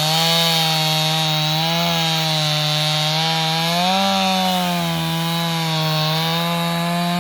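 Chainsaw running at steady high speed while cutting through wood, its engine pitch dipping and recovering slightly under the load of the cut.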